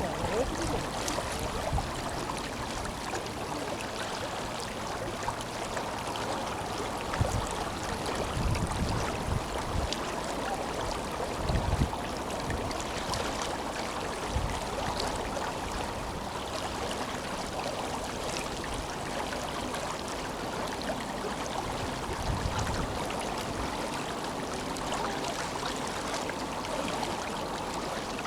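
Tenryū River flowing: a steady rush of moving water, with a few brief low bumps of wind on the microphone.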